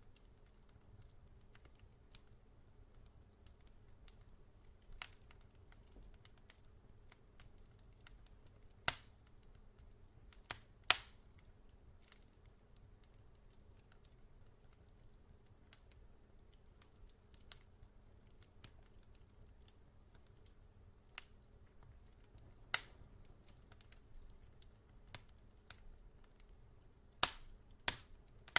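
Log fire burning with scattered sharp crackles and pops over a faint low background, a few louder pops about eleven seconds in and again near the end.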